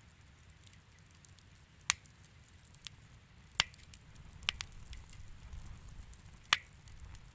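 Wood fire crackling in a fireplace: scattered sharp pops and snaps over a low, steady rumble, with three louder pops about two, three and a half and six and a half seconds in.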